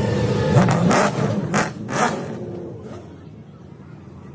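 A car engine running, rising briefly in pitch about half a second in, then fading away over the next couple of seconds, with a few short hissing noises along the way.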